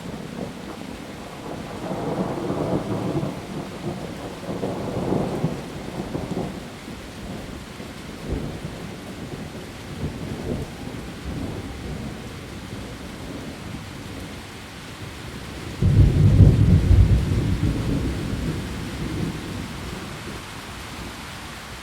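Heavy rain falling steadily through a thunderstorm. Low rolling thunder rumbles twice a few seconds in, then a sudden loud thunderclap about sixteen seconds in rumbles away over several seconds.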